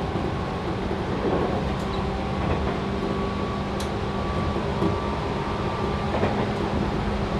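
Cabin running noise of a Tobu 6050 series motor car at steady speed: its TM-63B traction motors and gearing hum at a steady pitch over the rumble of wheels on rail, with a few sharp clicks.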